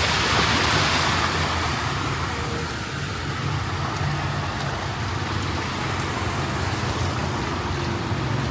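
Motor traffic on a flooded street: engines run steadily under a hiss of water, loudest around the first second as a vehicle passes.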